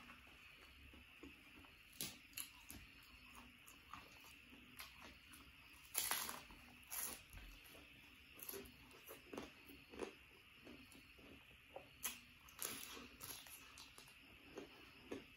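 A person eating by hand from a rice meal: close chewing and mouth clicks, with crunchy bites about six seconds in and again around twelve seconds.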